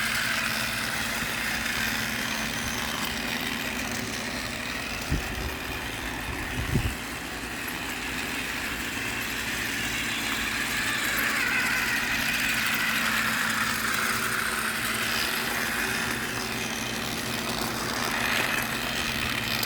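Engine running steadily, with a short knock about five seconds in and a louder one about a second and a half later.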